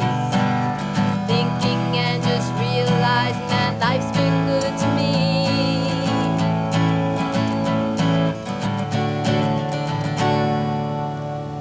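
Acoustic guitar strumming the closing chords of a song, the chords ringing and the level starting to fade near the end.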